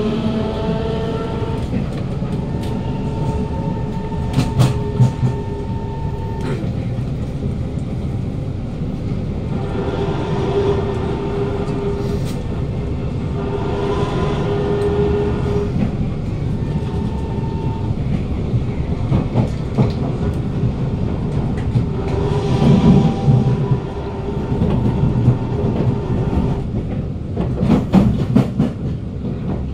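Kawasaki C151 train's GTO-VVVF traction motors whining under a moving carriage, over the steady rumble of steel wheels on rail. A set of motor tones rises in pitch near the start as the train pulls away. Steadier tones then come and go, and the wheels, now free of flats, click now and then over the rails.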